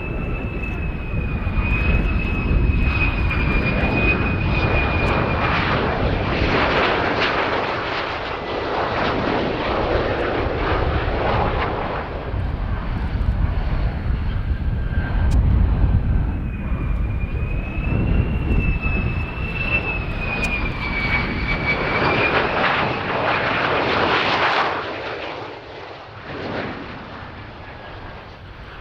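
Lockheed Martin F-35A Lightning II jet engine running loud, with a high whine that wavers in pitch and comes and goes twice. The noise fades away near the end.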